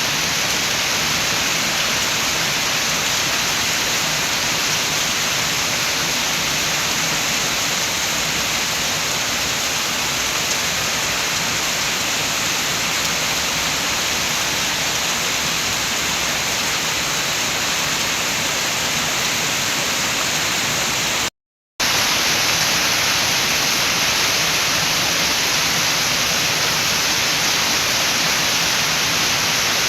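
Steady rain with wind, an even hiss without distinct drops. About two-thirds of the way through it cuts out to silence for about half a second, then carries on unchanged.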